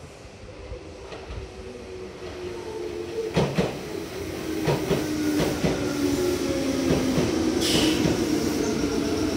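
Red Meitetsu electric train pulling into the station, growing louder as it comes alongside. Its wheels clack over the rail joints, its motors give a low whine that slides slowly down in pitch as it brakes, and there is a short hiss about three-quarters of the way through.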